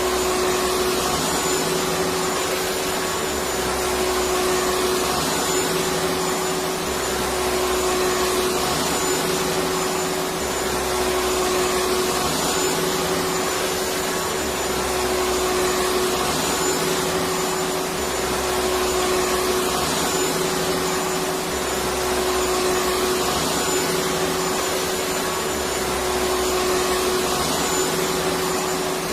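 Electric vacuum cleaner running continuously at an unchanging pitch: a steady whine over rushing air, with a faint low rumble that swells and fades every few seconds.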